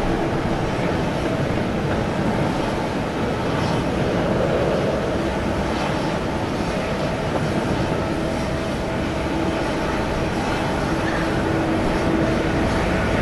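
Steady jet aircraft noise with a constant low hum running through it.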